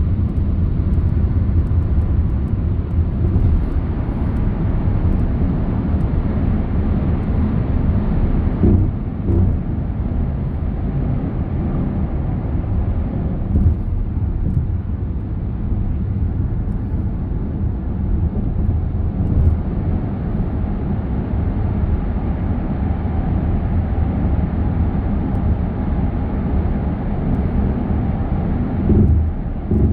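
A car driving on the road: a steady low rumble of road and engine noise, broken by a few short thumps, once about nine seconds in, again about fourteen seconds in, and near the end.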